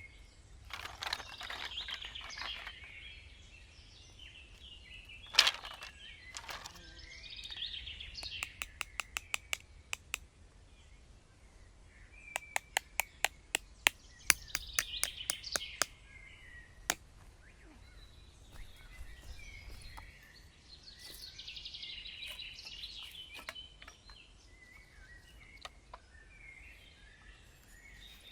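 Forest birds chirping and calling on and off, with two runs of rapid, evenly spaced sharp clicks, one about eight seconds in and one about twelve seconds in, and a few single knocks.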